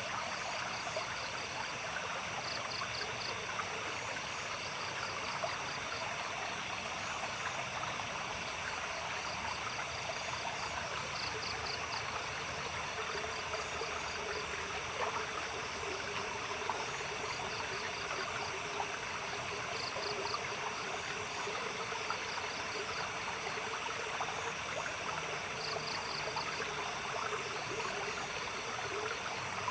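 Stream water flowing steadily, with night insects chirping over it in short high, pulsed trills that recur every few seconds.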